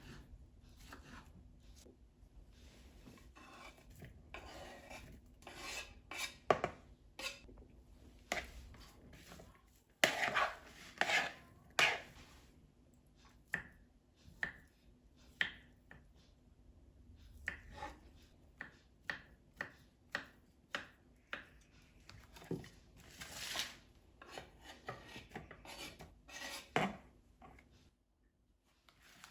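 Kitchen food preparation: a knife cutting on a board in irregular single strokes, with a few longer scraping swishes between them.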